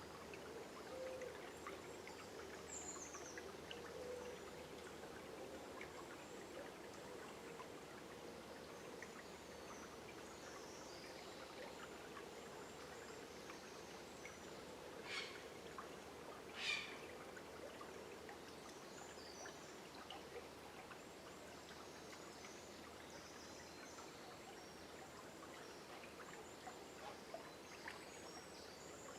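A river running steadily with a soft, even rush of water, under scattered faint bird chirps. About halfway through come two brief, louder chirps in quick succession.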